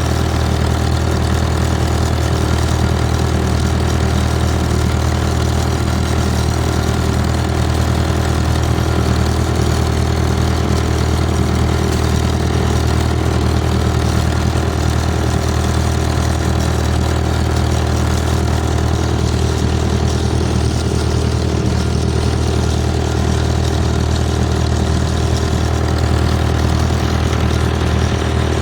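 Vintage farm tractor engine idling steadily, with an even, unchanging low engine note.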